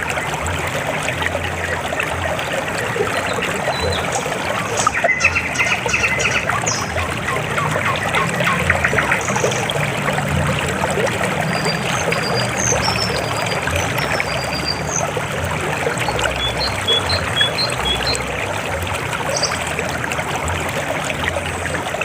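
River water flowing steadily over rocks, a continuous trickling and rushing, with a few short high chirps in the middle.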